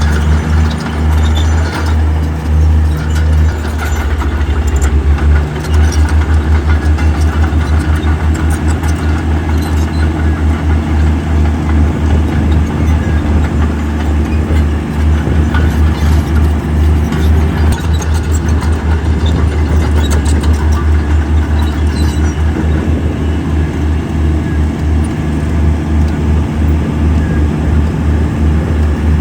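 Heavy diesel engine of earthmoving equipment running under load, a loud low rumble with a fast, even pulse.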